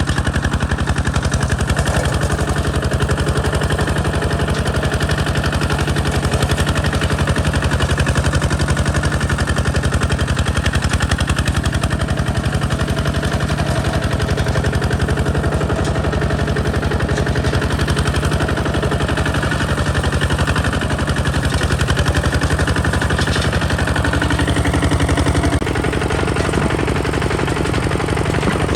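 Kubota ZT 155 DI walking tractor's single-cylinder diesel engine running steadily with rapid, even firing beats. Near the end it gets slightly quieter.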